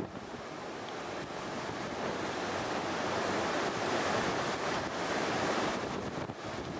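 Heavy storm surf breaking and rushing, with strong wind buffeting the microphone; the roar of the surf swells to its loudest about four to five seconds in.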